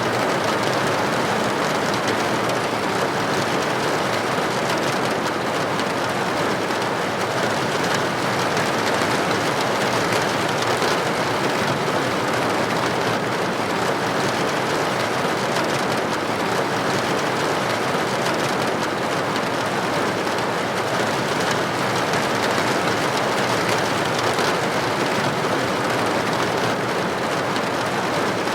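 Steady rain striking a building's window, an even, unbroken hiss of droplets.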